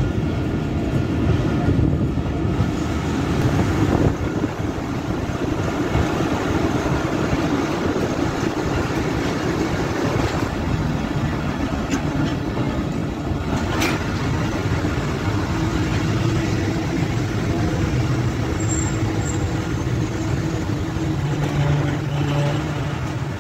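Passenger train running, heard from an open carriage doorway as it pulls into a station: a steady running noise with no break, joined by a low steady hum about two-thirds of the way through.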